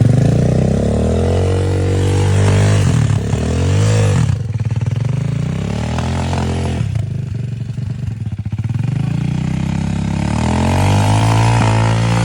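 Motorcycle engine revving, its pitch rising and falling several times, dropping back briefly about 4 and 7 seconds in.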